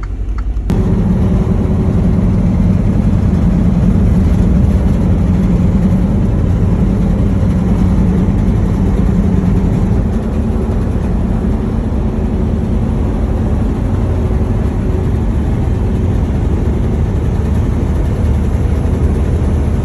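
Semi truck's diesel engine running steadily with heavy low rumble, cutting in abruptly about a second in.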